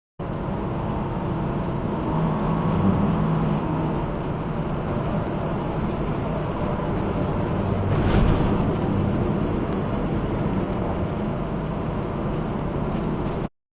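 Steady road and engine noise of a car on the move, as picked up by a dashcam. A brief louder rush comes about eight seconds in.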